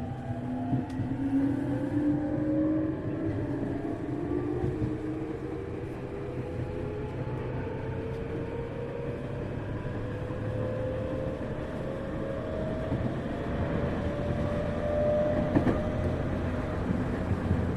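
Tokyu 1000 series electric train heard from inside a motor car while it accelerates. The traction motor and inverter whine rises steadily in pitch over the low rumble of wheels on rails, with a short click near the end.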